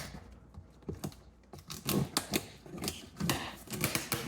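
A cardboard box being opened and its contents handled: a sharp click at the start, then scattered taps, scrapes and rustles of cardboard and packing.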